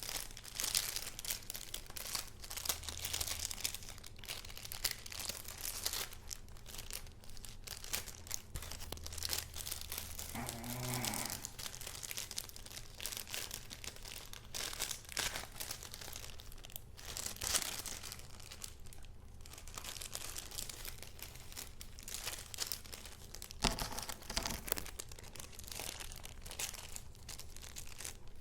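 Paper rustling and crinkling as junk journal pages and paper pieces are handled, a continuous run of crisp rustles. About eleven seconds in, a brief low pitched sound rises over the rustling.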